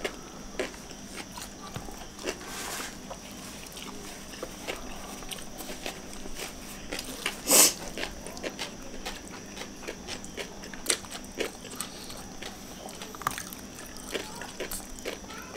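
Close-miked eating sounds of people eating rice and sambal fish with their hands: chewing, lip smacks and small wet clicks scattered throughout. About halfway through comes one louder, short rushing noise.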